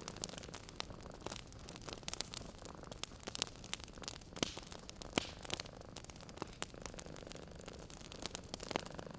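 Wood fire crackling in a fireplace: irregular sharp pops and snaps over a soft hiss, with a couple of louder pops around four and five seconds in.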